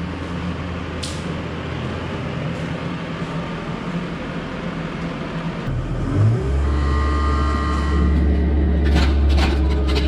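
Excavator diesel engine running steadily. About six seconds in, the engine note rises and gets louder, with a thin hydraulic whine over it, and a few sharp knocks come near the end.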